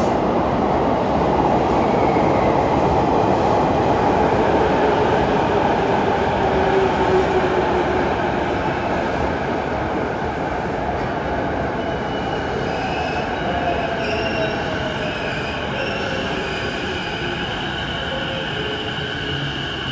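Electric commuter train moving along the platform, its running noise loud, with a motor whine falling in pitch as it slows. High squealing tones join about halfway through.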